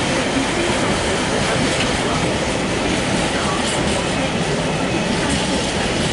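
Class 66 diesel-electric freight locomotive, with its two-stroke V12 diesel engine, running steadily as it hauls container flat wagons, their wheels rolling and clattering on the track.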